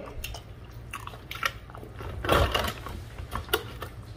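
Close-up eating sounds of seafood: chewing and mouth smacking with scattered small clicks and crackles, and a louder burst about two seconds in.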